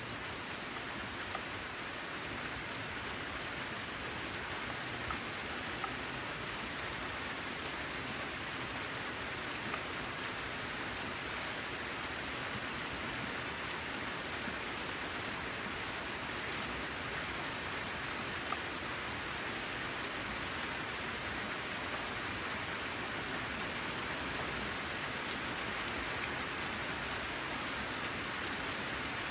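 Steady rain falling: an even hiss with a few louder individual drops ticking here and there.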